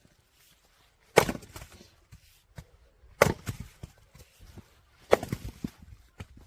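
Firewood being split: three sharp splitting blows about two seconds apart, each followed by a short clatter of split pieces falling.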